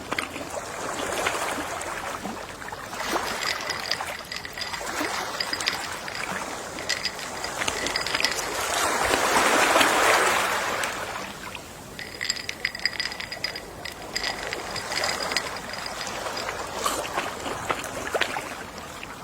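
Gentle sea waves washing ashore: a wave swells to a peak about ten seconds in and draws back, with scattered small clicks before and after it.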